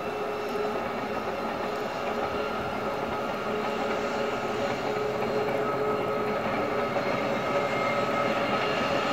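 Diesel-hauled passenger train working up a grade at a distance, a steady rumble with a faint held whine, slowly getting louder as it approaches.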